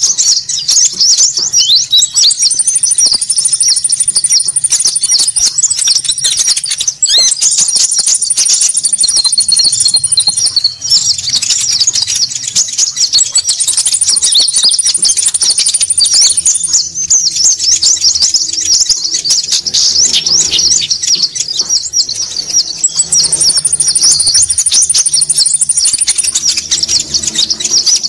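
Bird-trapping lure recording of small birds (konin) calling noisily: a dense, unbroken stream of rapid, high-pitched chirps and chatter. A higher, even trill lasting a few seconds comes in four times over it.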